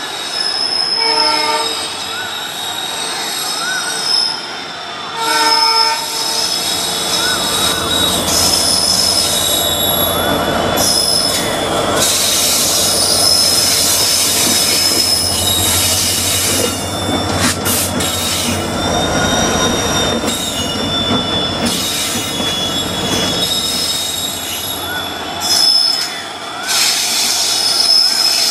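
EMD WDP-4D diesel locomotive hauling a passenger train: a short horn blast about a second in and another about five seconds in. Throughout, the wheels squeal on the curving rails, with a low rumble from the passing train through the middle.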